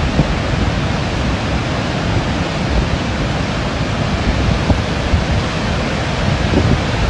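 Heavy rain pouring down in a steady, unbroken hiss, with a rough low rumble and scattered low knocks underneath.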